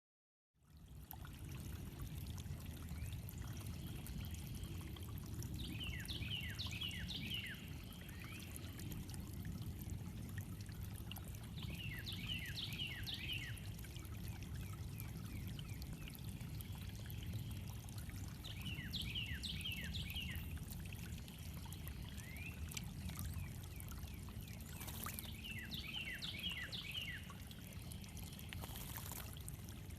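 Water trickling steadily over stones in a backyard water feature, while a songbird sings the same short phrase of quick falling notes about every six seconds.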